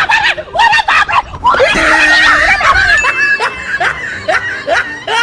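Laughter: a run of short, falling 'ha-ha' bursts, a few a second, with a louder, shrill outburst about two seconds in.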